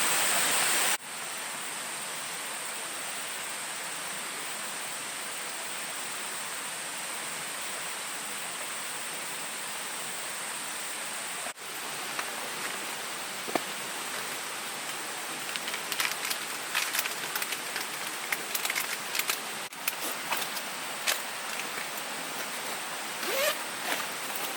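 Steady forest ambience: an even hiss with a high, steady insect drone, broken by a few abrupt cuts. In the second half, scattered sharp crackles and clicks come in.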